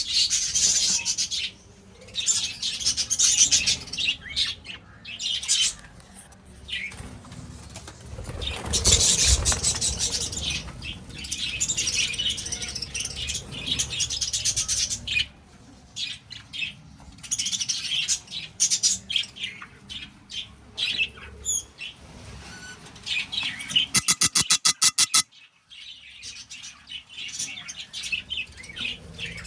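Budgies in a colony chattering and chirping busily and continuously. A louder rustle comes about nine seconds in, and a rapid run of sharp ticks comes near the end.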